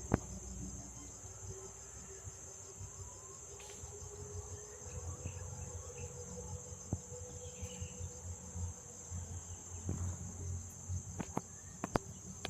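Steady high-pitched drone of insects singing, crickets or cicadas, with a low rumble beneath and a few sharp clicks near the start and near the end.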